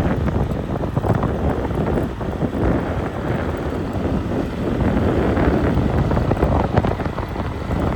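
Wind buffeting the microphone: a loud, uneven rumbling noise.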